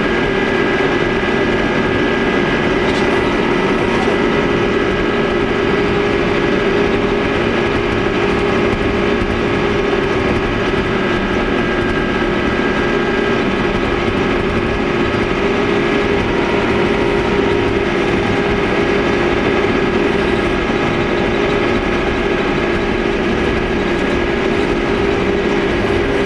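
Engine of a field machine running steadily at constant speed, heard from inside its cab, with a droning hum that keeps the same pitch throughout.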